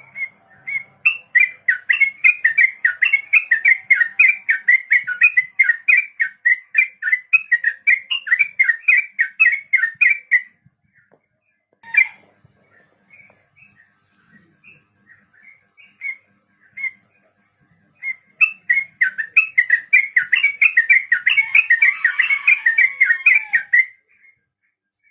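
Yellow-vented bulbul (trucuk) singing its long rolling 'ropel' song: a fast, unbroken run of bright whistled notes. It comes in two long bouts, with a few scattered notes and one sharp click in the pause between them.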